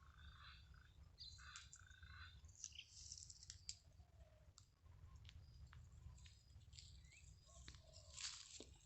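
Faint bird chirps and short calls with scattered sharp clicks, over a low steady background rumble.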